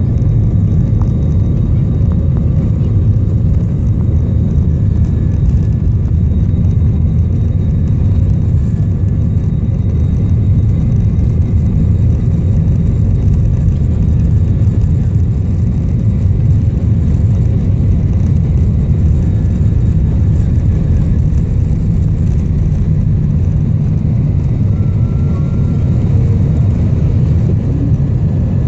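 Steady low rumble of an airliner's jet engines and airflow heard inside the passenger cabin, with faint steady whines above it.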